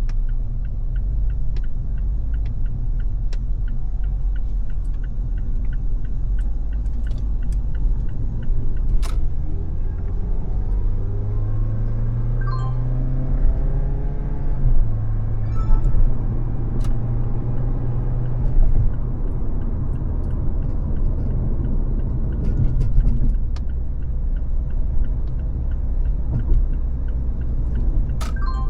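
Car driving on a freeway: steady low rumble of road and engine noise. Midway through, an engine's pitch climbs for several seconds and then drops suddenly. Scattered sharp clicks sound throughout.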